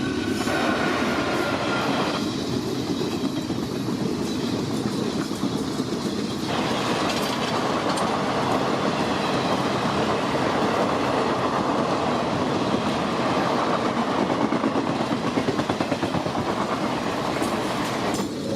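Express passenger train rolling past at speed, with its wheels clattering over the rail joints under a steady rumble.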